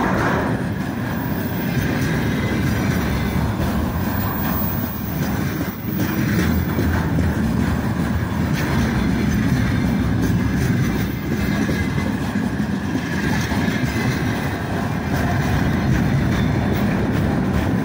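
Container flatcars of a freight train rolling past slowly: a steady, loud noise of steel wheels running on the rails.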